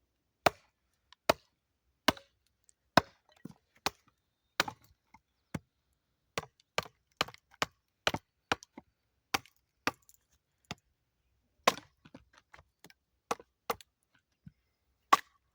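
Saw-blade steel khukuri striking hardened oak again and again, about two sharp hits a second, some heavier than others, as it chops into and splits the wood.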